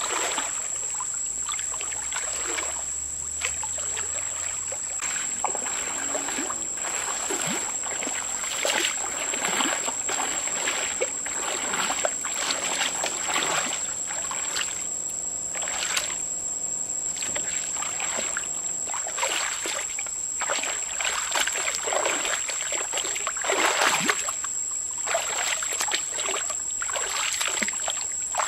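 Water splashing and sloshing in irregular surges, with a steady high-pitched whine underneath.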